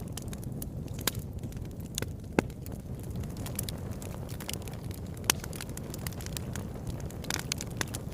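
Wood fire burning in a fireplace: a steady low rumble of flames with irregular sharp crackles and pops, the loudest pops about a second, two and a half seconds and five seconds in, and a quick run of crackles near the end.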